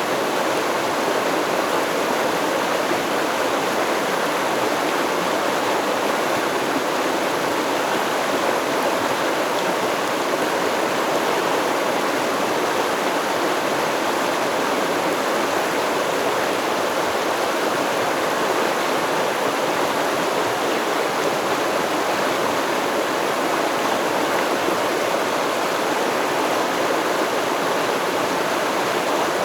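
Shallow river or stream flowing steadily over rocks: a continuous, even rush of water.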